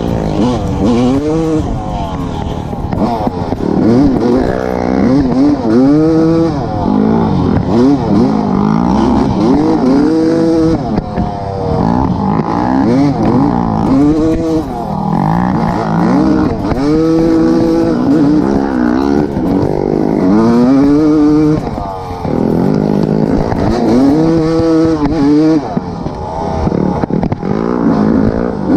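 Motorcycle engines revving up and down over and over, the pitch climbing and dropping every second or two, with more than one engine running at once.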